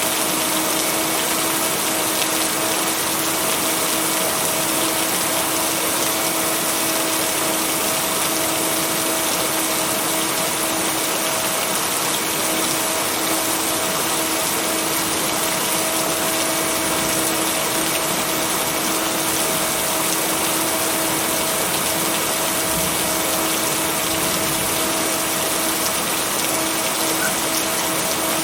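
Steady rain making a dense, even hiss with no breaks or thunder claps. A constant pitched hum of two steady tones sits underneath, from binaural beats blended into the rain.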